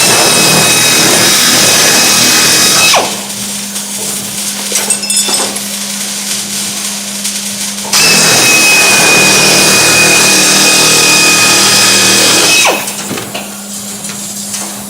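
Handheld power tool run in two loud bursts, about three and five seconds long, with a high whine, each winding down as it is released. A steady low hum runs underneath throughout.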